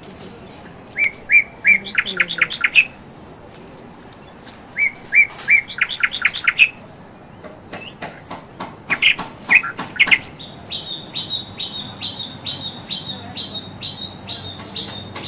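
A bird singing: three short phrases, each a few clear chirps running into a quick trill. Then a steady run of about a dozen sharp notes, two or three a second.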